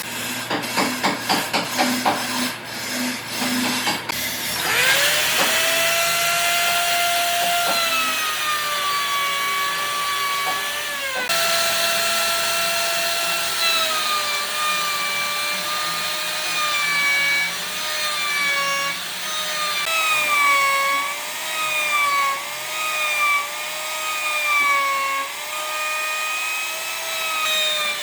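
Woodworking in a workshop: a quick run of strokes on wood for the first few seconds, then an electric power tool's motor whine cutting or sanding wood, its pitch sagging and wavering as the tool is pushed into the work, with a brief break partway through.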